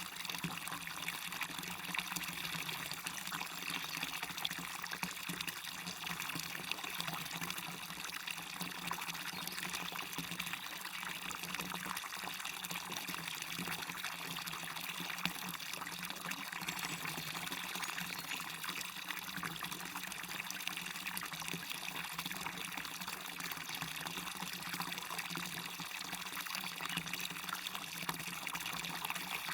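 Small waterfall splashing and trickling steadily: an even rush of water, mostly high hiss with little deep rumble.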